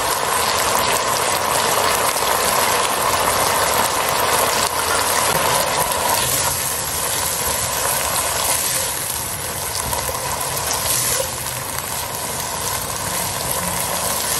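Chicken strips sizzling steadily in hot oil in a pot, with a silicone spatula stirring through them.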